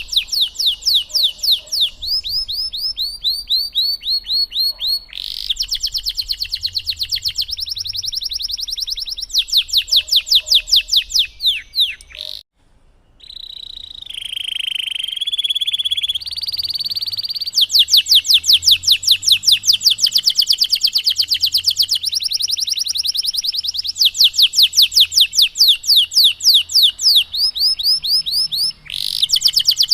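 Domestic canary singing loudly in long rolling trills of rapid, repeated down-slurred notes, several fast phrases changing in pitch and speed, with a brief pause about halfway through followed by a lower warbled phrase before the trills resume.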